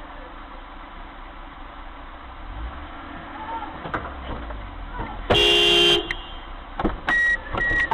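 Car interior road and engine rumble. About five seconds in, a car horn sounds one loud blast lasting under a second. Near the end it is followed by a quick run of short, repeated high beeps.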